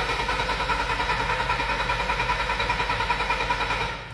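Bobcat T590 skid steer's common-rail diesel engine running steadily at high throttle with a fast even pulse, on two injectors that a leak-down test showed to be leaking. Near the end the sound falls off sharply.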